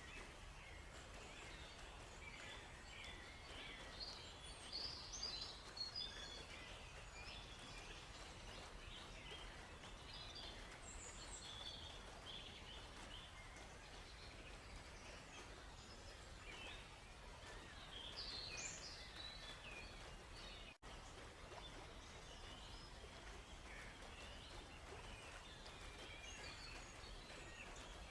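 Several small songbirds chirping and calling on and off over a faint, steady background hiss of forest ambience. The calls are busier about a fifth of the way in and again about two-thirds through. The sound drops out for an instant shortly after that.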